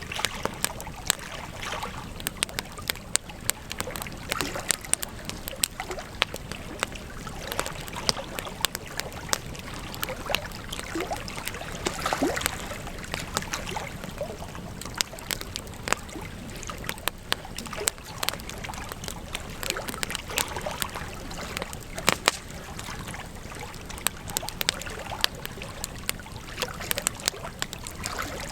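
Campfire of burning wood crackling, with frequent sharp, irregular pops and snaps over a steady hiss.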